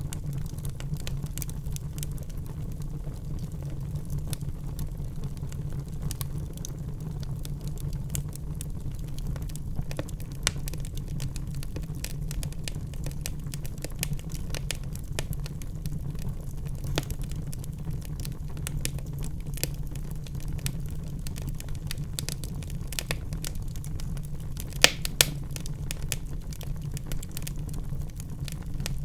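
Wood fire in a fireplace crackling, with irregular small pops over a steady low rumble; two louder sharp pops come close together near the end.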